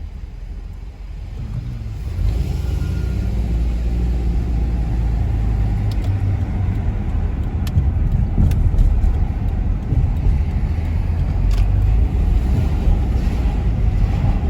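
Car on the move: a steady low rumble of engine and road noise that grows louder about two seconds in.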